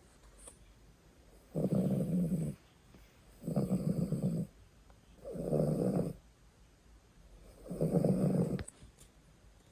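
A poodle snoring while asleep: four long snores, each about a second, one every two seconds or so.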